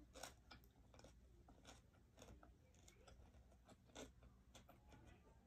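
Faint close-up chewing of a mouthful of grilled chicken, with scattered soft mouth clicks and smacks.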